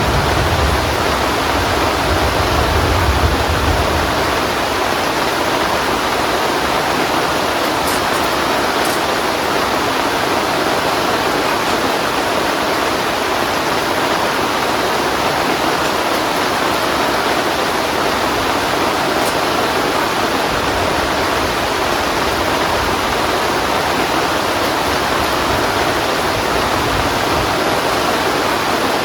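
Heavy rain falling in a steady, even hiss. A low rumble sits under it for the first few seconds and returns more weakly later on.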